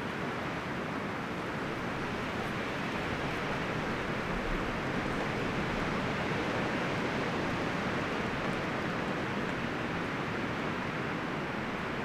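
Wind blowing through forest trees, a steady rushing rustle of leaves and branches that swells a little a few seconds in.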